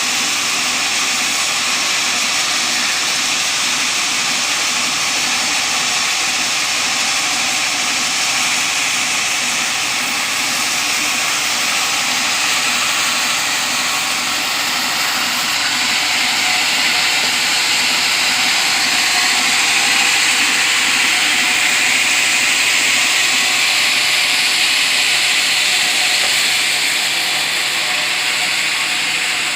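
Sawmill saw running through teak timber while cutting beams: a steady, hissing noise of blade and machine that gets slightly louder about halfway through.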